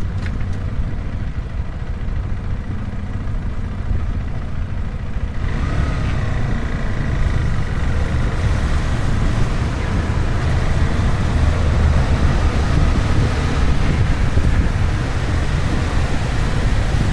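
Motorcycle on the move: a steady low engine and road rumble with wind buffeting the microphone, growing louder and fuller about five seconds in as the bike picks up speed.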